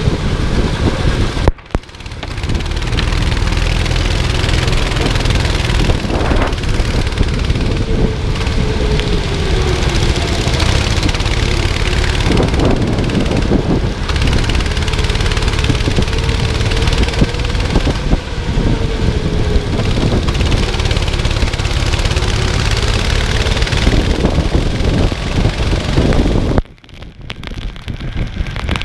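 Go-kart engine running at racing speed, its pitch rising and falling as it accelerates and lifts, under heavy wind noise on the microphone. The sound cuts out sharply for a moment about a second and a half in, and for about two seconds near the end.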